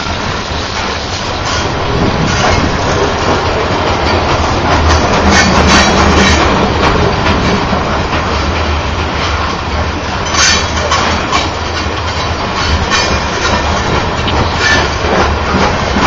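Covered hopper cars of a Canadian Pacific grain train rolling past close by: steady rumble of steel wheels on rail with repeated clicking and clacking.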